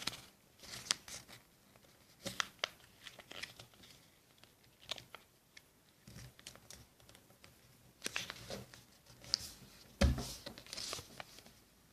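A sheet of notebook paper being folded and creased by hand, rustling and crinkling in short irregular bursts, with a soft knock from handling about ten seconds in.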